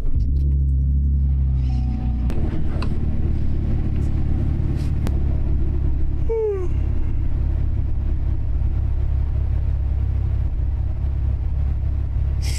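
2010 Chevrolet Camaro engine started from cold and idling, heard from inside the small cabin: a higher idle for the first two seconds, then a steady low idle. A person yawns about six seconds in.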